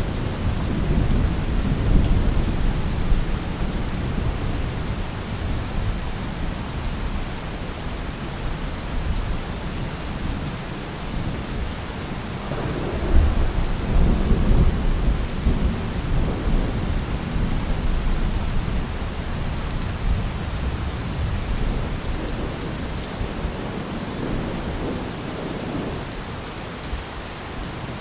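Thunderstorm: steady heavy rain hissing on surfaces, with rolling thunder rumbling at the start and again from about halfway, the second roll opening with a sharper crack before fading.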